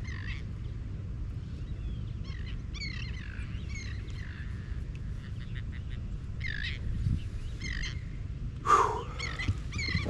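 Birds calling repeatedly in short, curved calls, with a louder call near the end, over a steady low rumble.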